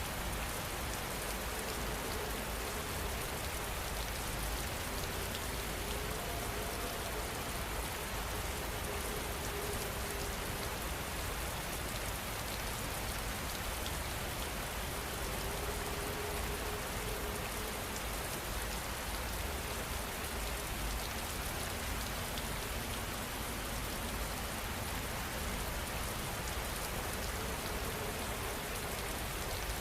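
Steady rain falling, an even hiss with scattered drop ticks that never lets up.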